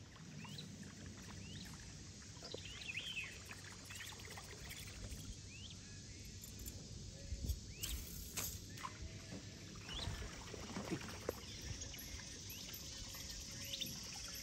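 Small birds chirping along a river bank, scattered short rising calls, over a faint steady low hum, with a few soft knocks near the middle.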